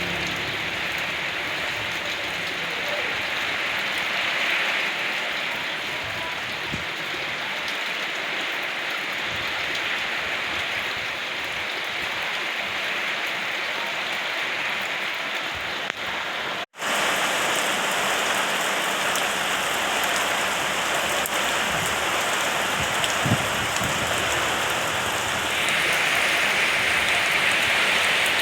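Steady rain falling and pattering on surfaces. The sound drops out for an instant a little past halfway and resumes slightly louder.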